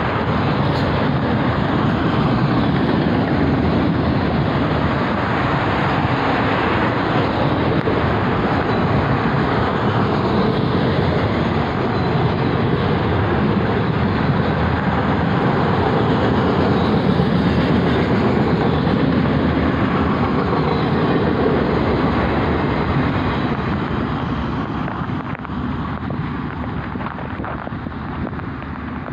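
Freight train of autorack cars rolling past on the rails: a steady rumble of steel wheels on track. It fades over the last few seconds as the end of the train goes by and moves away.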